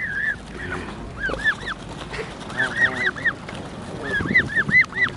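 Geese honking, short rising-and-falling calls in quick runs of three to five.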